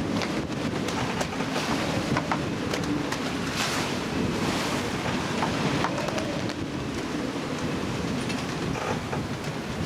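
Wind and sea water rushing along a sailboat under way, a steady wash of noise with scattered small clicks and knocks. A louder surge of water swells up about three and a half seconds in.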